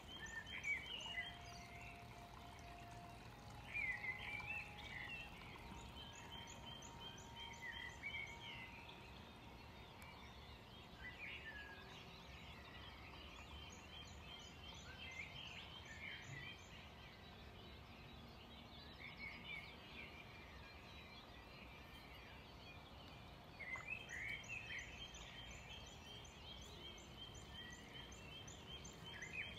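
Faint birds chirping and trilling in short, repeated phrases over a low, steady background noise.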